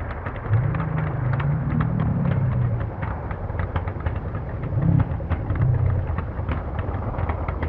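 Several Zenoah 38 two-stroke petrol engines on large RC scale Avro Lancaster bombers running in flight. Their drone swells and fades as the aircraft pass, with frequent short crackles.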